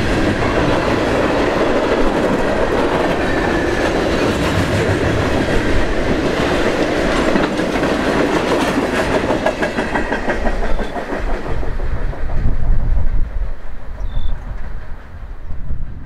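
Freight cars of a heavy freight train rolling past close by, a steady clickety-clack of wheels over the rails. About two-thirds through the sound thins to an uneven low rumble as the end of the train goes by.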